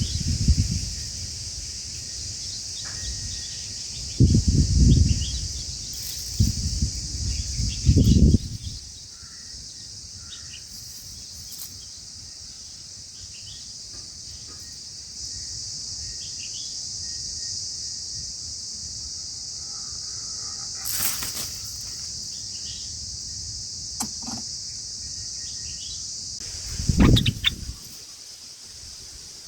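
Steady high-pitched insect drone with faint, short bird chirps scattered through it. Several loud low rumbles break in near the start and once near the end.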